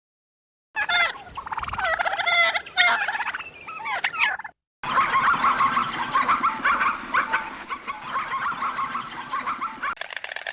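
Poultry calling, in two clips cut together. About a second in come several loud calls that waver in pitch. After a brief break comes a dense, overlapping chatter of many birds, which ends at a cut near the end.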